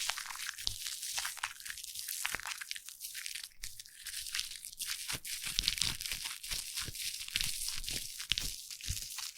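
Foam crackling and squishing close to the microphone: a dense, continuous fizz of tiny pops, with scattered soft low thumps.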